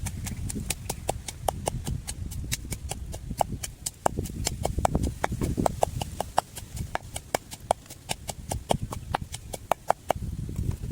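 A rapid series of sharp clicks and taps, several a second, over a low rumble.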